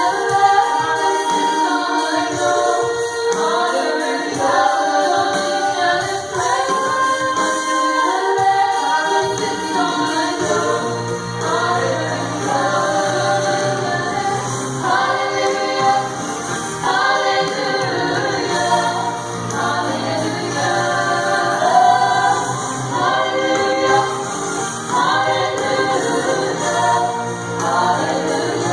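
A choir singing a song together, with several voices blended.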